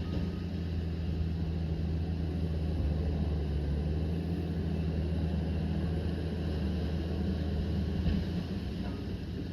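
Liebherr PR 744 crawler dozer's diesel engine running steadily with a low drone.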